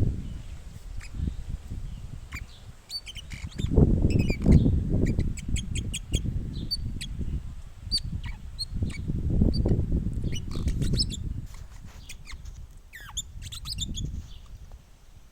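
Birds chirping with many short, high calls, over repeated low rumbling bursts.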